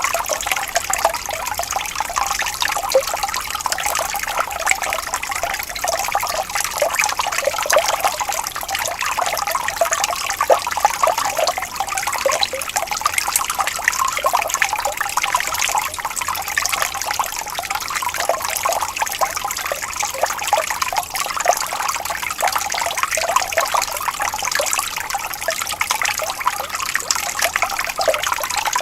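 Shallow water trickling and burbling steadily over stones in a small stream, with many small splashes and gurgles.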